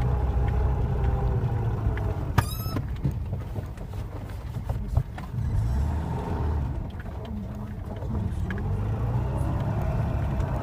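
Moskvich 2140's four-cylinder petrol engine running under load as the car drives through snow, its revs rising and falling. Several knocks and a brief high squeak about two and a half seconds in.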